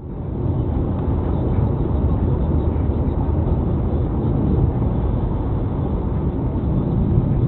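Steady low rumble of a car on the move: engine and road noise, with no distinct impact.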